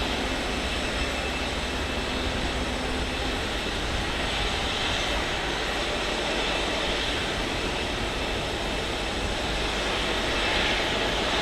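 Boeing 737-8's CFM LEAP-1B jet engines running at taxi idle, a steady even rushing sound with no rise or fall.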